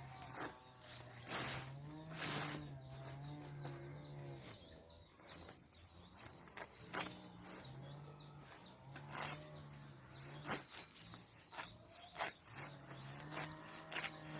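Small birds chirping in short arched notes, over scattered clicks and rustles and a low wavering hum that comes and goes.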